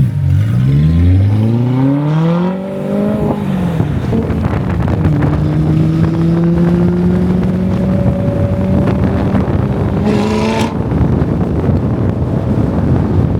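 Car engine accelerating hard through the gears. Its pitch rises for about three seconds, drops at a gear change, then climbs slowly again for several seconds before it cuts off about ten seconds in, leaving a steady rushing noise.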